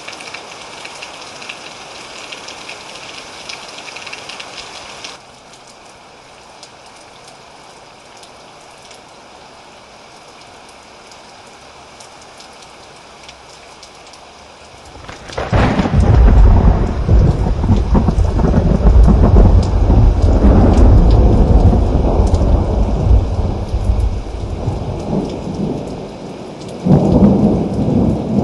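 Thunderstorm: steady rain, then about halfway through a loud, deep roll of thunder that rumbles on for around ten seconds, with a second thunderclap near the end.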